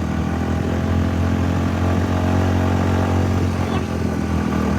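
A small engine running steadily at one speed: a low, even hum that does not change.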